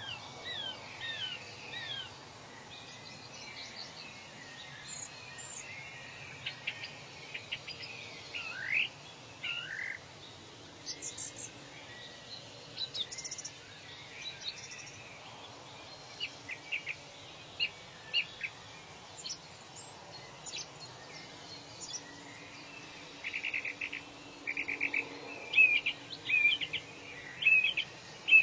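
Several birds calling and singing over a steady background hiss: short chirps and sliding whistles, with quick trills that grow busier and louder near the end.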